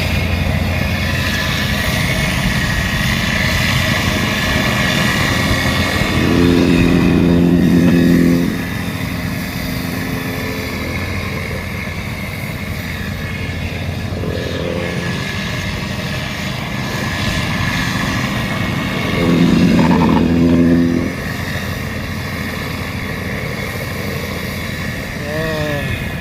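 Engines of asphalt paving machinery running steadily. Twice, about six and about nineteen seconds in, a louder steady drone rises for about two seconds and then drops back.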